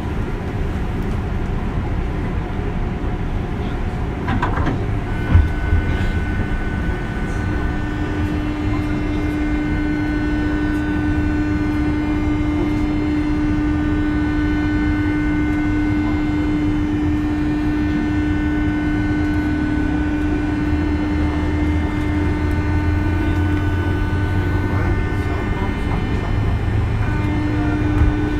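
JR West 201 series electric train running between stations: steady rolling rumble with a steady electrical whine from its chopper-controlled traction equipment. There is a single knock about five seconds in.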